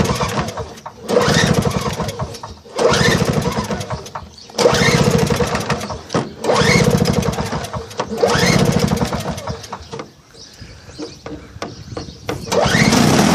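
Tecumseh two-stroke engine on a John Deere TRS 21 snowblower being cranked in about seven short starter pulls, each rising in pitch with a burst of rapid strokes. This is a cold start on choke after priming. Near the end the engine catches and keeps running.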